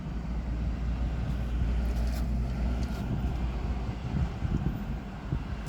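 Steady low rumble of road traffic passing on a busy street.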